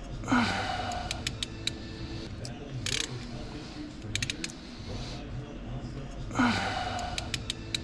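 Metal tools clicking and clinking while working on an engine, over a steady low hum. Twice a louder short sound falls in pitch.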